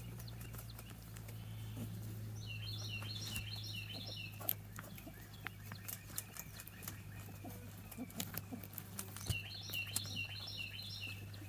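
A songbird sings two phrases of quick, repeated high notes, one a couple of seconds in and the other near the end. Under it run a steady low hum and scattered light clicks and rustles.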